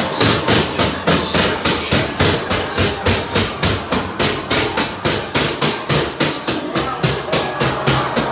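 Loud, steady mechanical clacking, about four sharp knocks a second, from the ghost train ride's running mechanism.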